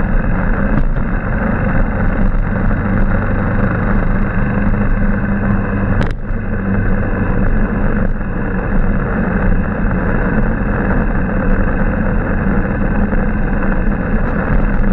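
Motorbike engine running steadily while riding, with road and wind noise rushing over the microphone. A single sharp knock about six seconds in.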